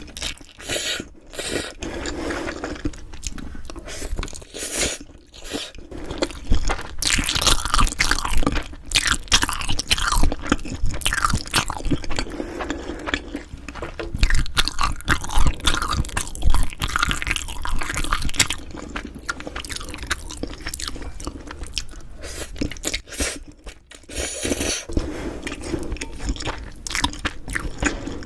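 Close-miked chewing and biting of food: a dense run of short, crisp mouth sounds, busiest in the middle and easing off briefly near the end.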